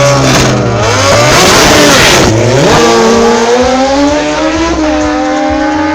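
High-revving sport motorcycle engine at a drag race: the pitch swings up and down hard over the first couple of seconds, then settles into a steadier note that climbs slowly.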